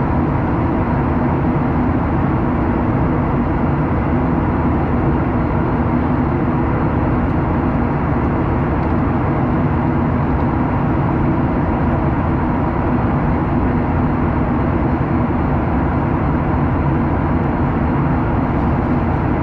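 Jet airliner in flight heard from inside the passenger cabin: a steady, unchanging drone of the engines and rushing air, with a faint steady hum in it.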